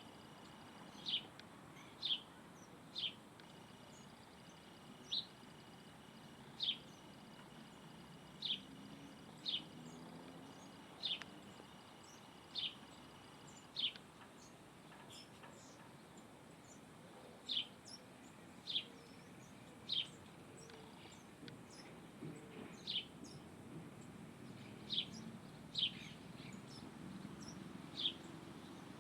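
A bird calling with short, sharp chirps repeated irregularly every second or two, over faint low background noise.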